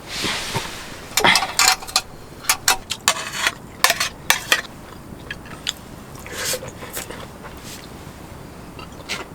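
Tableware clattering and scraping while eating: a run of short clicks and knocks, densest in the first half, sparser later.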